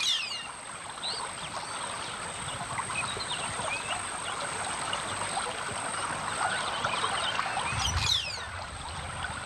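A flooding river's water flowing as a steady rushing wash, full of small gurgles. A short call falling in pitch sounds at the start and again about eight seconds in.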